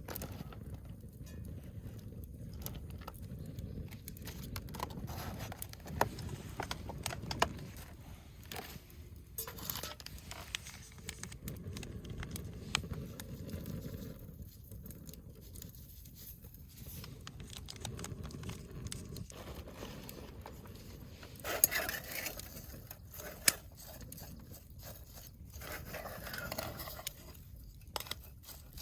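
Scattered clicks, scrapes and light knocks of small objects being handled, over a low steady rumble, with a few sharp louder clicks.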